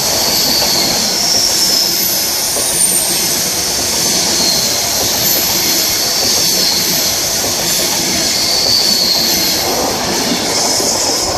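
Virgin Trains Class 390 Pendolino electric train passing without stopping: a loud, steady rush of wheels on rail and air, with thin high tones that waver in pitch over it.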